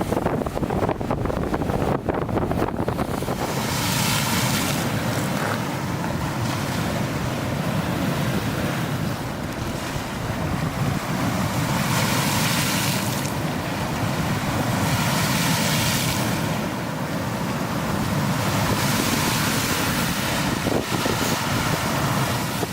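Strong wind buffeting the microphone, and wind-driven waves on a lake breaking in swells every few seconds: the gusty return wind after a typhoon.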